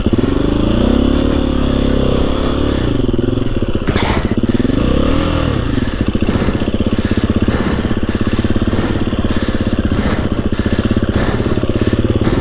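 KTM EXC-F 350 single-cylinder four-stroke dirt bike engine revving up and down over and over as the bike labours through deep snow. There is one sharp knock about four seconds in.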